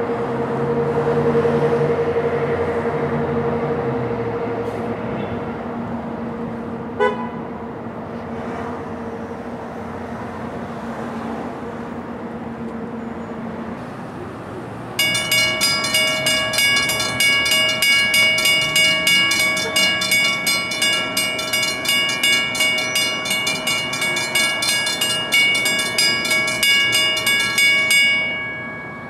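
Passenger train noise with a steady two-note hum that fades out about halfway through. Then a bell rings rapidly and steadily for about thirteen seconds, either the locomotive's bell or a grade-crossing bell, and cuts off abruptly near the end.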